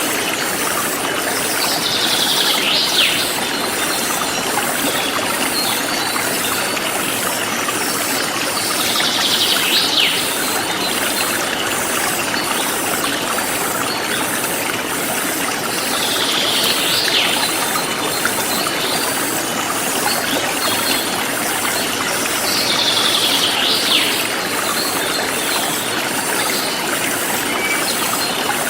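Forest stream flowing in a steady rush. A bird call repeats about every seven seconds, four times, each ending in a sharp downward stroke. Insects give a fast, even pulsing chirp high above the water.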